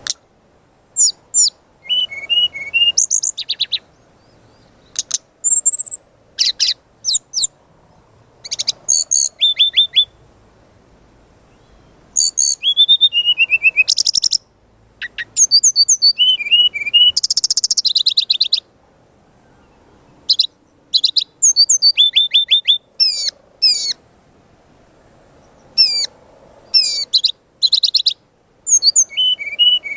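Brown-chested jungle flycatcher (SRDC) in full, aggressive song: runs of quick, high chirps and rapid-fire repeated notes and trills, broken by pauses of a second or two.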